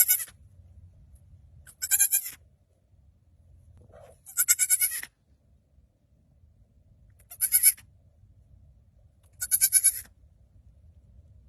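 An animal bleating: five high-pitched calls of about half a second each, spaced a couple of seconds apart, the third a little longer.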